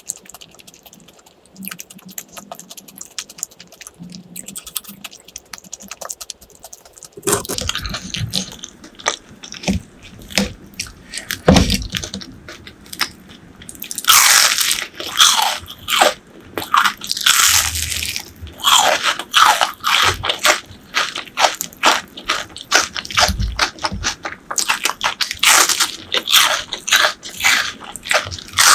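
Close-miked eating of crisp fried food. Faint crackly clicks come first, then from about seven seconds in, loud crunching bites and chewing, crackling in quick strokes.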